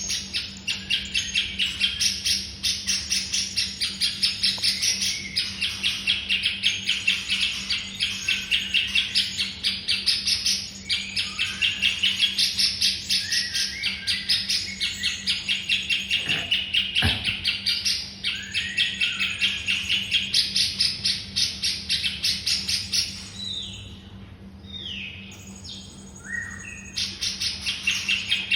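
Songbird singing a fast, unbroken run of sharp, high chirps, about five a second. About two-thirds of the way through the run breaks for a few seconds into slower, separate gliding whistles, then the rapid chirping resumes, over a faint steady low hum.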